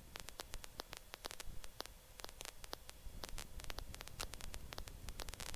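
Faint static on a helicopter's headset intercom audio feed between transmissions: a low hiss and hum with irregular crackling clicks, and no engine or rotor sound coming through.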